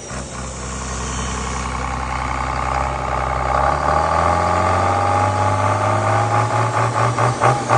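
Engine running steadily, its speed stepping up a little about halfway through. Near the end a rhythmic pulsing sets in, about three beats a second.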